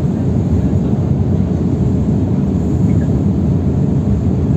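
Steady low rumble of a passenger airliner's engines and airflow, heard from inside the cabin.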